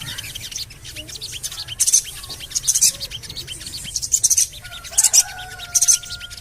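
Sogon bird calling: bursts of rapid, high-pitched 'cuit' chirps repeated every second or so, with a long, steady whistled note entering in the last couple of seconds.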